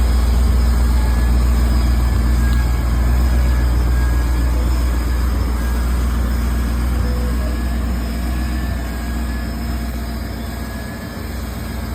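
Twin-turbocharged Coyote 5.0 V8 in a Ford F-150 idling steadily, with no revving.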